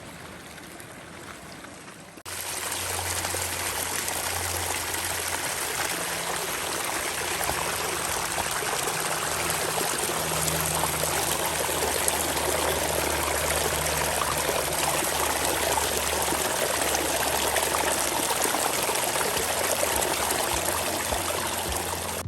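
Steady rushing of stream water, becoming much louder and closer about two seconds in.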